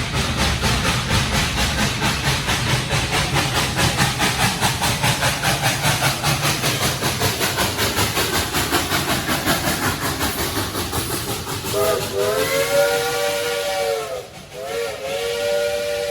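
Dollywood Express steam locomotive working past, its exhaust chuffing in a quick, even beat. Near the end its chime whistle sounds two long blasts.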